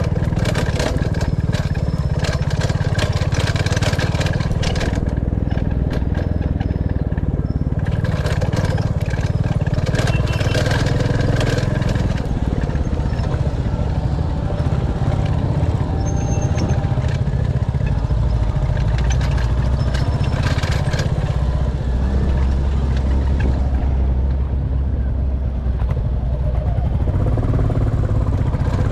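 Royal Enfield Classic 350's single-cylinder engine running as the motorcycle is ridden, heard from the rider's position, with stretches of rushing noise over it.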